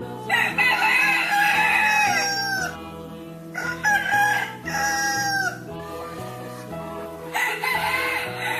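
Rooster crowing: three long cock-a-doodle-doo calls, one at the start, one about halfway and one near the end, over background music.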